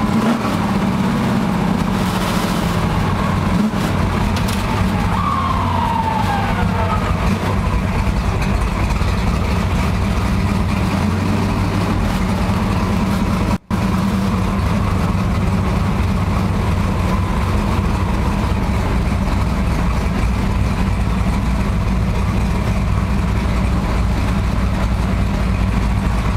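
Car engine and exhaust droning steadily at an even cruising speed, heard from inside the cabin. The sound drops out for an instant a little past halfway.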